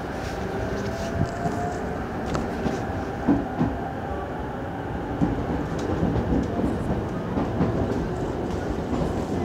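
E231 series electric commuter train running, heard from inside the passenger car: a steady rumble of wheels on rail with a few short clicks.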